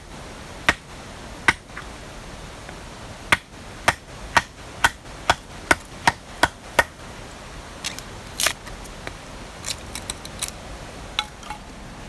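A series of sharp, short knocks, a few scattered at first, then a steady run of about two a second lasting several seconds, then irregular knocks again near the end.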